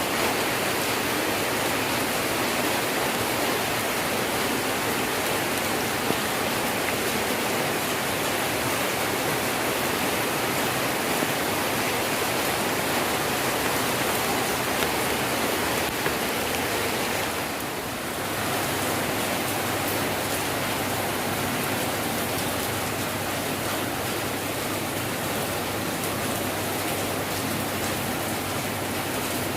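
Heavy rain falling steadily, a dense even hiss that eases briefly about eighteen seconds in, with a few faint drip ticks.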